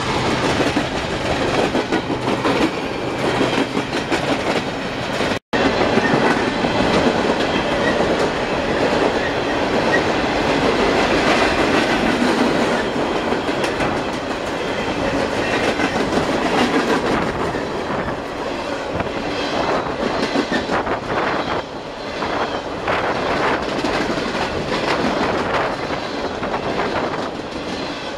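A train rolling by close, its wheels clicking over the rail joints in a steady clickety-clack. The sound cuts out for an instant about five seconds in.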